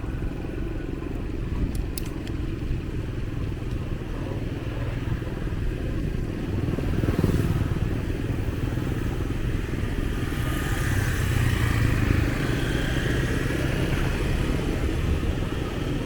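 Street ambience with motorbike engines passing, over a steady low rumble. A louder swell comes through about halfway and again a little later.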